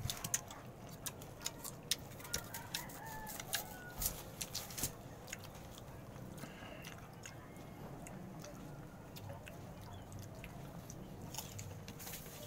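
Slices of green mango being bitten and chewed, a string of sharp clicks over the first few seconds, then quieter chewing.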